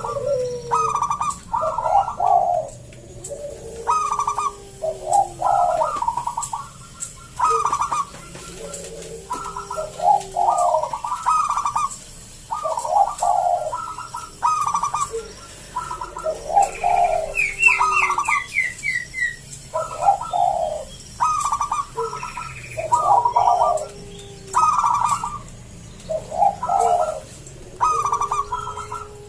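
Zebra dove (perkutut) singing its cooing phrases over and over, a phrase every second or two with short gaps. The voice is thick and deep, typical of a local bird that sings persistently. A brief run of higher chirps comes a little past the middle.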